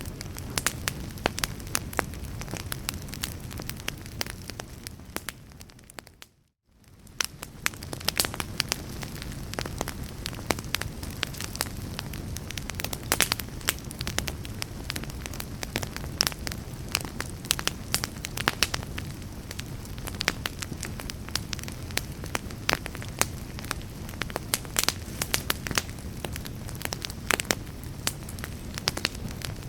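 Wood fire in a fireplace crackling, with frequent sharp pops over a steady low rumble of flame. About six seconds in the sound fades down to a moment of near silence, then fades back up and the crackling continues.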